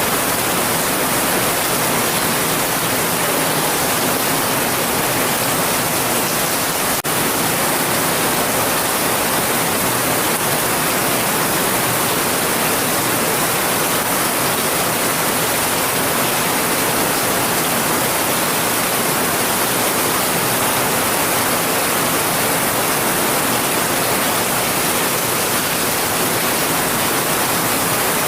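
Heavy rain falling steadily: a dense, even hiss with no separate drops or thunder, and one brief click about seven seconds in.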